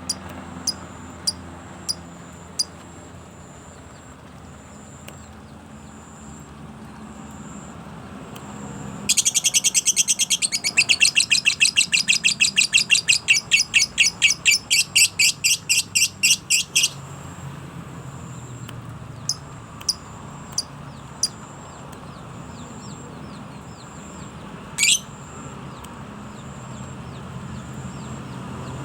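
A songbird calling: a few sharp high ticks at first, then a loud run of rapid repeated chirps, about five a second, lasting some eight seconds, followed by scattered single chirps and one falling note near the end.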